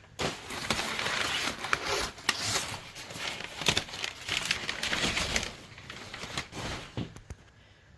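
Packing paper being pulled out of a cardboard box, rustling and crumpling in irregular bursts with a few sharp crackles. It dies down about seven seconds in.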